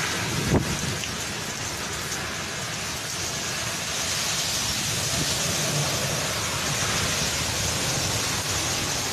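Heavy storm rain and wind: a steady rushing noise, with a short thump about half a second in.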